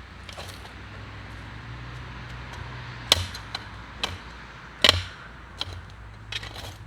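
A handful of sharp knocks or clicks, the two loudest about three and five seconds in, over a steady low hum.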